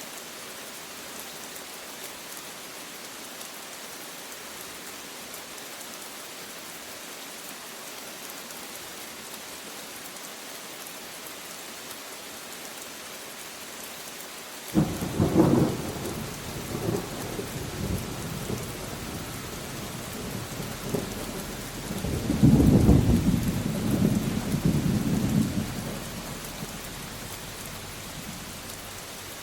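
Steady rain falling, with a thunderclap crashing in about halfway through and rolling on in a second, louder swell before fading away.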